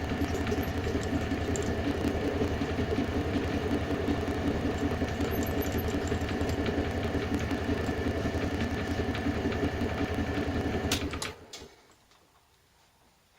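Electric power tool motor running steadily under a fast, even pulse, then switched off about 11 seconds in, with a few sharp clicks as it stops.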